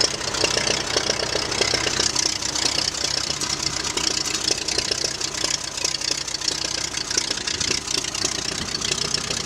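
Tractor engine running steadily with a rapid, even chug of firing strokes.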